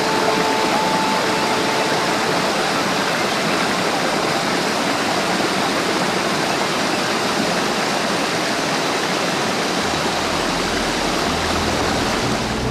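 Waterfall water rushing in a steady, even roar. Faint music tones fade out near the start, and low music notes come in near the end.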